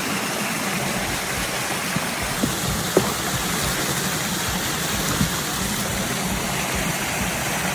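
Steady rush of running water at a koi pond, like a pond waterfall or outflow, with a few faint short taps or splashes.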